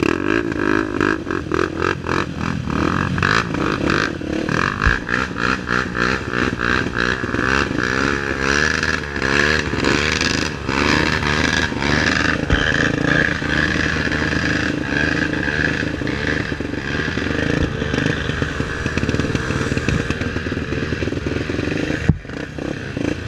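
Single-cylinder four-stroke trail motorcycle engine running under constantly changing throttle, its pitch rising and falling, with clatter and knocks from the bike working over rough ground.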